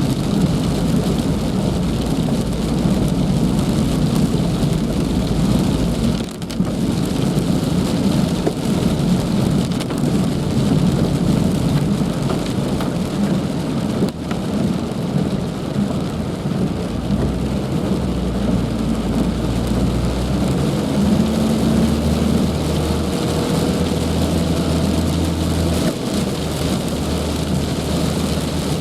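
Heavy rain pouring steadily, with a deep low rumble underneath.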